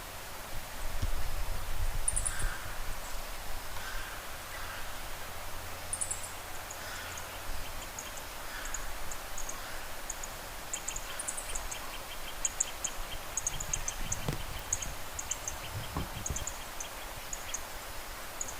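Several wild birds calling in a forest, with short high chirps repeating throughout and scattered mid-pitched calls in the first half. A fast ticking trill joins from about ten seconds in. A low rumble sits under the first few seconds.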